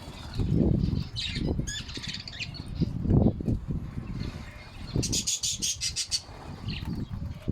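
Small cage birds, lovebirds and finches, chirping and squawking, with a rapid trill of high notes about five seconds in. Several low thumps and rustles come in between, the loudest about three seconds in.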